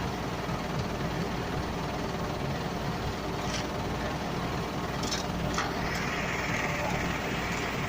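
An engine idling steadily, with a few short clinks partway through and a higher hiss joining near the end.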